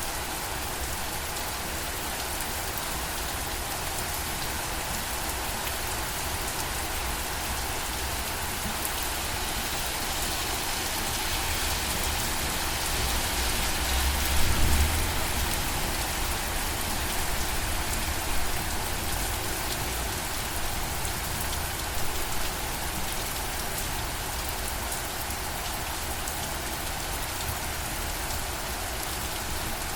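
Steady rain falling, swelling a little louder around the middle with a brief low rumble about halfway through.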